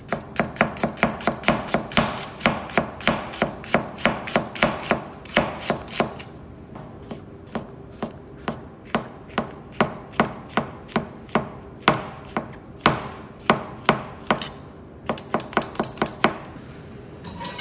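Knife chopping food on a cutting board: a fast, even run of strokes, about four a second, for the first six seconds, then slower, more scattered strokes.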